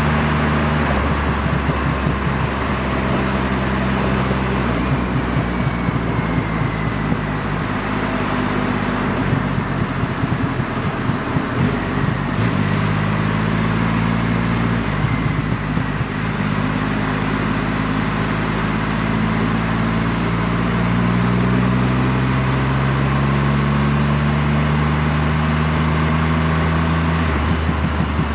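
Triumph Rocket 3R's 2.5-litre inline-three engine running at expressway cruising speed under a steady rush of wind noise. The engine note shifts about twelve seconds in, climbs slowly through the second half, and drops near the end.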